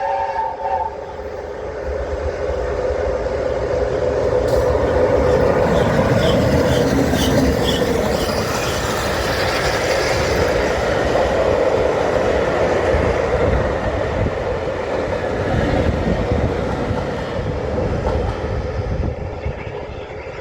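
Peppercorn A1 steam locomotive No. 60163 Tornado and its train running past, the last of its whistle cutting off about a second in. The noise of the locomotive and the wheels on the rails swells to a peak in the middle, then fades toward the end.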